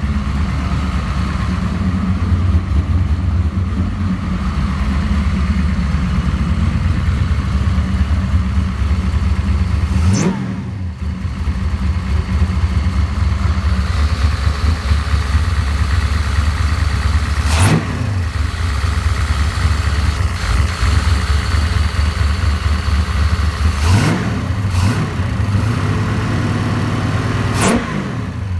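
Car engine idling through a freshly finished exhaust with stainless headers and a MagnaFlow muffler, with a steady lumpy pulse, blipped up and back down about five times: at about ten seconds, eighteen seconds and three times near the end.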